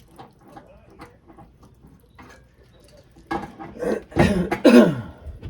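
A man coughing several times in a harsh run, the loudest about a second before the end, after a few light taps and clicks.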